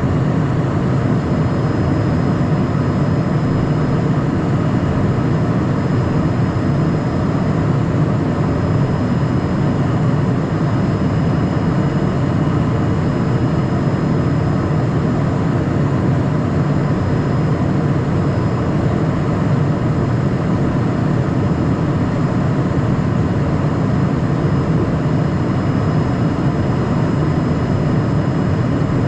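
Steady cabin noise inside a Cessna Citation Mustang's cockpit in flight: the rush of airflow and the twin turbofan engines as one even drone, with a faint steady high whine over it.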